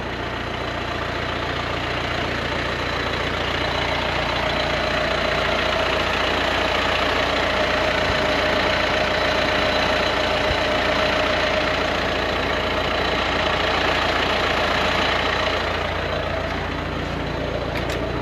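A vehicle engine running steadily, growing a little louder through the middle and easing off near the end.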